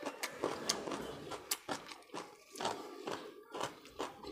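Close-miked wet chewing and lip smacks of a person eating rice and fish curry: a string of short clicks and squelches, several a second.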